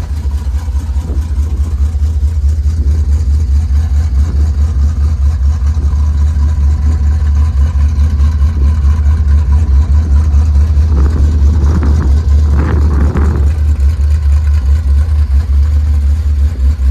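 1968 Chevrolet Impala engine idling just after a cold start, with a deep, rapidly pulsing exhaust note. About eleven seconds in, a higher sound rises briefly for two or three seconds.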